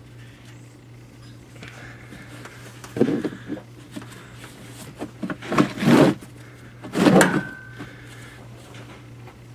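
Several loud clunks and scrapes, about three seconds in, twice around six seconds and once near the end, the last leaving a brief ringing tone, over a steady low hum.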